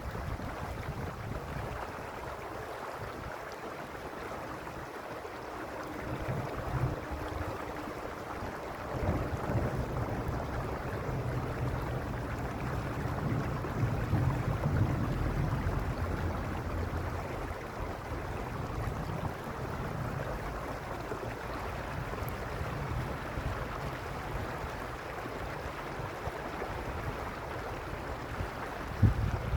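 Stream water running steadily, with gusts of wind buffeting the microphone now and then as a low rumble.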